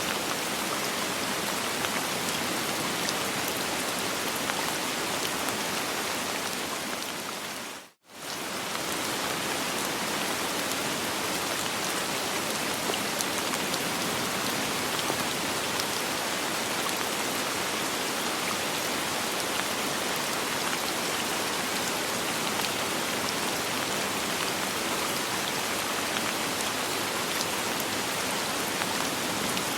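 Steady soft rain with no thunder, an even hiss of falling drops. About eight seconds in it fades briefly almost to silence and then comes straight back.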